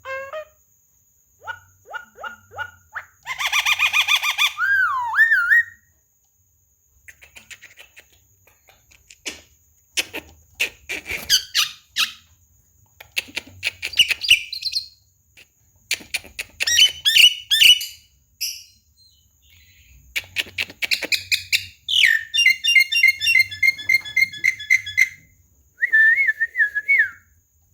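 Javan myna (jalak kebo) singing: a varied string of whistles, slurred gliding notes, clicks and fast chattering series, broken by short pauses.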